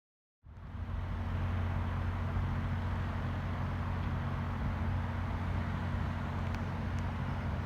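A steady low vehicle rumble with a constant hiss over it, starting abruptly about half a second in.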